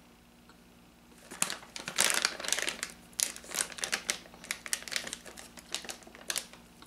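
A person chewing a dog treat with the mouth closed: after about a second of quiet, a run of irregular crunching crackles and clicks.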